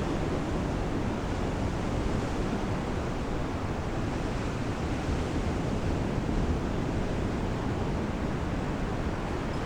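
Steady rushing wash of sea surf with wind on the microphone, even throughout, with no distinct events.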